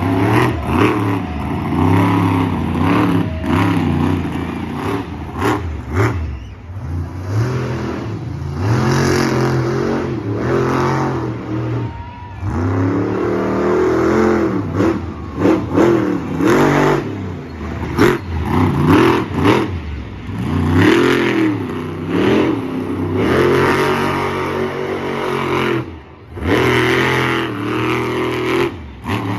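Raminator monster truck's engine revving hard again and again, its pitch sweeping up and down in repeated surges, with sharp bangs and clatter between them. It drops off briefly near the end before picking up again.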